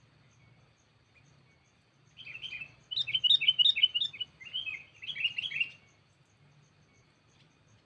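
A sooty-headed bulbul (kutilang) decoy sings three quick runs of loud chirping notes, starting about two seconds in and stopping near six seconds. It is calling out to challenge rival bulbuls.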